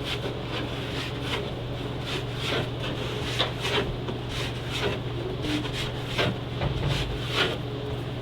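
Irregular light knocks and rubbing, about one or two a second, over a steady low hum.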